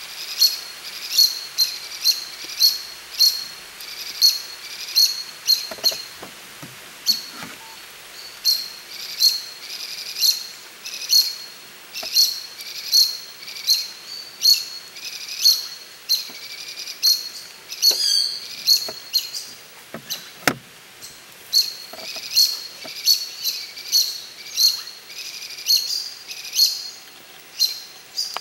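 A small songbird calling: short, high-pitched chirps repeated about twice a second. About two-thirds of the way through, a brief warbling run briefly replaces them. A few faint knocks are heard as well.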